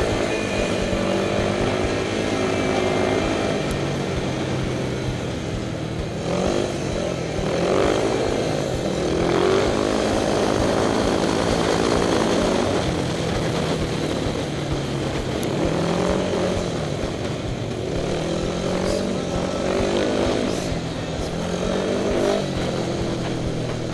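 Speedway motorcycle engine heard onboard at racing speed, its pitch rising and falling repeatedly as the throttle is opened on the straights and eased for the turns, with wind rumble on the microphone.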